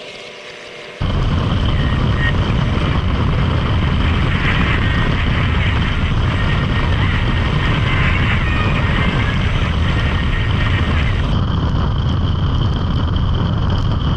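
Motorcycle riding noise: a steady, loud run of engine and rushing air that cuts in suddenly about a second in, as a music track ends.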